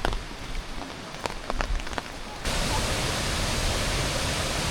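Rain falling, with a few sharp drips tapping close by; about two and a half seconds in, it cuts to a louder, steady rush of falling water.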